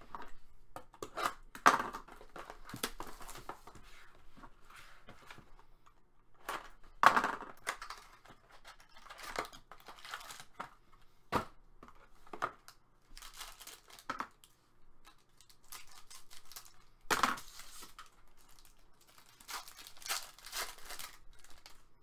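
Hockey card packs being torn open and their wrappers crinkled, with cards and packaging handled between tears.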